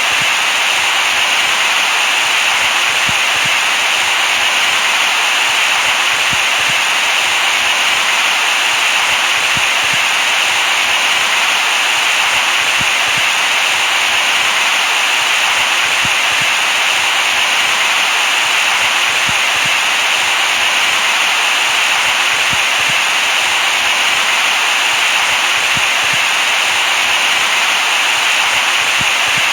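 Steady hiss of white noise played to soothe a baby to sleep, even and unchanging, with most of its weight in the upper-middle range and little low rumble.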